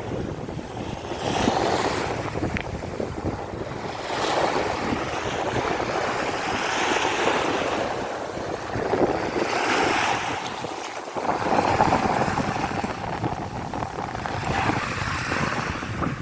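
Sea waves breaking and washing on the shore, swelling and ebbing every two to three seconds, with wind buffeting the microphone.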